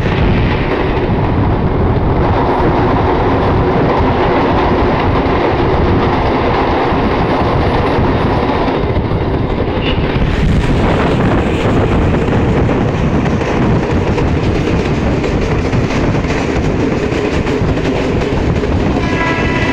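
Suburban electric local train running at speed, heard from its open doorway: a steady, loud rush of wheels on rail with clickety-clack and wind noise. A train horn starts sounding just before the end.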